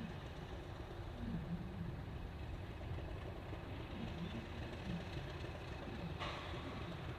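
Low, steady engine rumble with a slight rhythmic wobble in pitch. A hiss starts suddenly about six seconds in.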